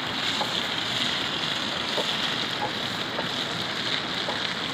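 Tomatoes, chillies and shallots sizzling steadily in oil in a small wok over a wood fire, stirred with a wooden spatula that gives a few light taps.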